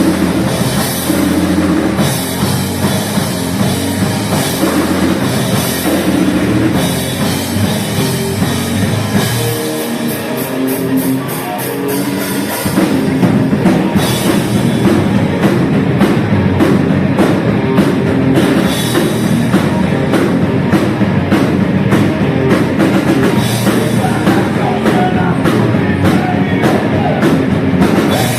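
Crossover thrash band playing live: distorted electric guitars, bass and drum kit. The playing turns fuller and louder about twelve seconds in, with fast cymbal strokes.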